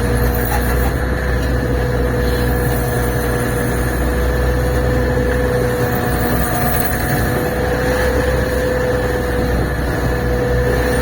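Fishing boat's inboard engine running steadily at low revs, a deep hum with a constant higher tone over it.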